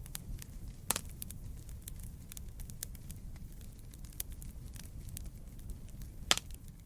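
Campfire of burning wood crackling: a steady low rumble of flames with frequent small pops and snaps, and two louder pops, about a second in and near the end.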